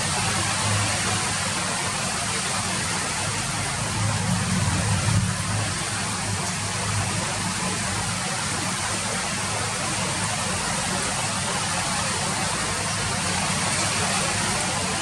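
Steady rainfall, an even hiss of falling drops with a low rumble underneath that swells briefly about four seconds in.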